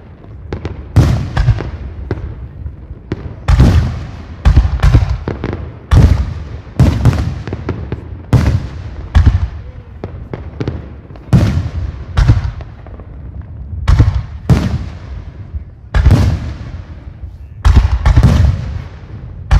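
Aerial fireworks bursting in a professional display: about fifteen sharp bangs, roughly one every second or so and unevenly spaced, each trailing off in a rumbling echo.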